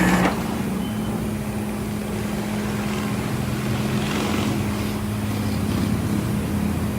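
A motor vehicle running at a steady drone, with a constant low hum and no change in pitch, after a sudden change in sound about a third of a second in.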